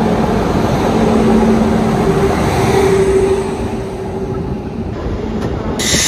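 Passenger train rolling slowly into a station, heard from an open coach door: steady rumble of wheels on the track with a low, steady hum. The rumble eases a little near the end.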